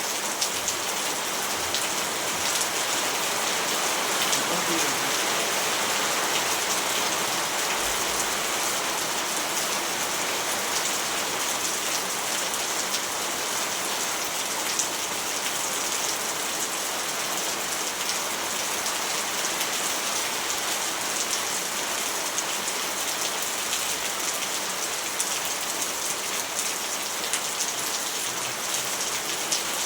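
Steady rain falling on hard surfaces, an even hiss with fine drop patter throughout.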